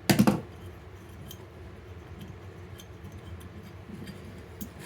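Small parts of a wood stove fan being handled on a bench: a brief sharp clatter at the start, then a few faint ticks and clicks over a low steady background.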